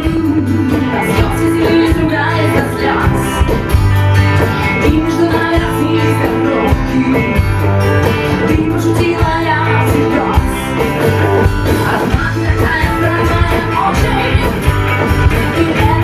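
Rock band playing live: electric guitars, bass and drums with a steady beat, and a singing voice heard at times.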